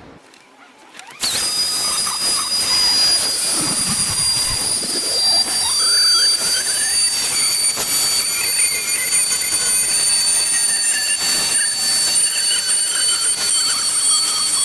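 Trim router with a chamfer bit starting about a second in and running with a steady high whine while it cuts a chamfer along the wooden edges.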